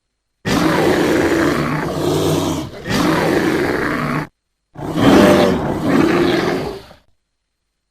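American black bear calling: three harsh, rasping vocalizations, the first two back to back and the third after a short pause.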